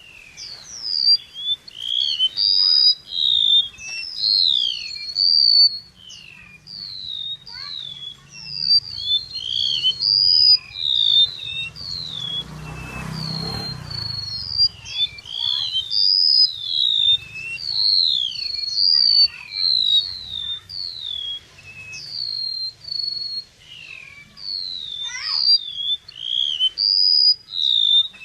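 Chim sâu (small Vietnamese insect-eating songbird) singing its 'kéo đờn' lure song: a rapid, continuous string of high chirps and downward-slurred whistled notes. A brief rush of noise rises and fades about halfway through.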